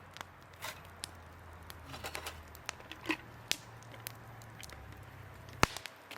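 Wood fire crackling, with irregular small pops and snaps and one sharp, louder pop near the end.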